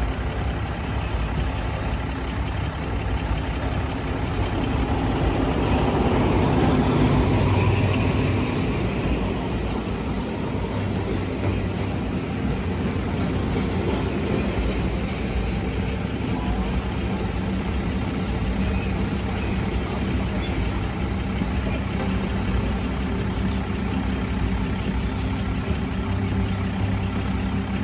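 Diesel train running with a steady low engine hum. The noise swells for a few seconds about six seconds in, then settles back.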